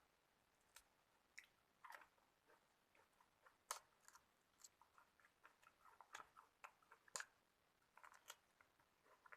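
A person chewing food close to the microphone: faint, irregular wet mouth clicks and soft crunches, with a couple of sharper crunches.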